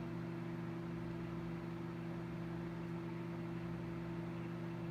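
Microwave oven running with a steady electrical hum, working again after its burnt power cord was replaced.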